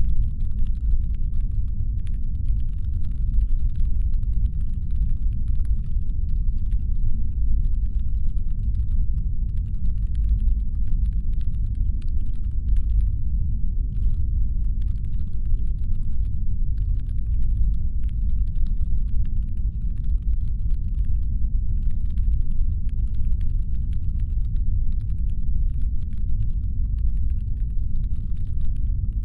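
Steady deep brown-noise rumble, a designed spaceship engine hum, with faint rapid clicking over it that stops briefly a couple of times.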